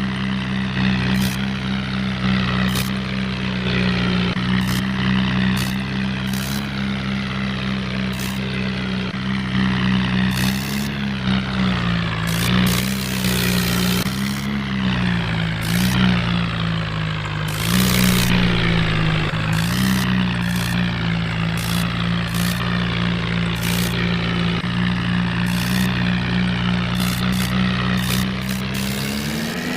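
Tractor engine sound running steadily at a low pitch, wavering up and down a few times midway, with frequent short clicks over it.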